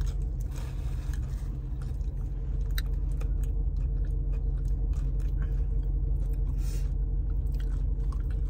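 Close-up chewing of a thin rolled taco, with many short crunchy clicks, over a steady low hum.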